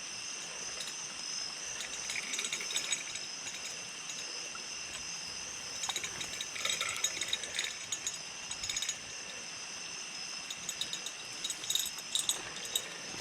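Crickets and other night insects trilling steadily in several high pitches, with scattered bursts of clicking and rustling over them a few times.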